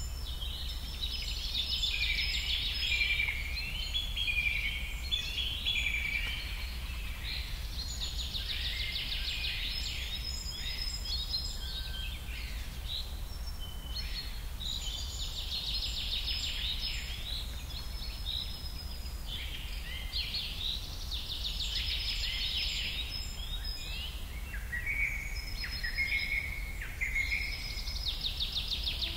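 Forest birds calling: clusters of chirps and fast trills that come back every five or six seconds, over a steady low hum.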